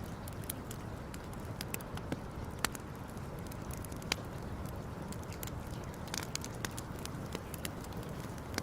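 Wood campfire crackling: irregular sharp pops and snaps, the loudest about two and a half and four seconds in, over a steady low noise.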